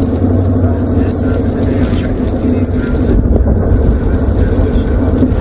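Steady road noise of a car driving at highway speed in heavy rain, heard from inside the cabin: tyres on wet pavement with a low rumble from the road and engine.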